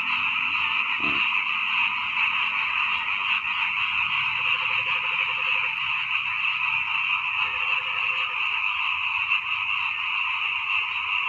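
Dense chorus of many frogs calling together, a steady high-pitched mass of calls. Twice, a lower, rapidly pulsed croak lasting about a second stands out from it.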